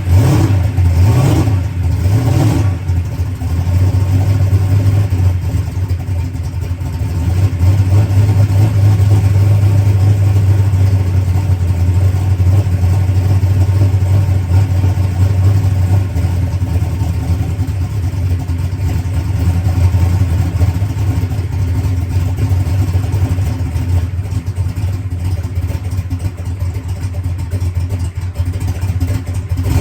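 Drag race car's engine idling steadily, blipped twice near the start, running on its newly fitted Enderle fuel pump.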